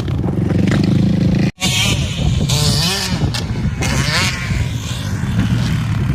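Motorcycle engine running, cutting out to silence for a moment about a second and a half in, then revving with a wavering, rising and falling pitch.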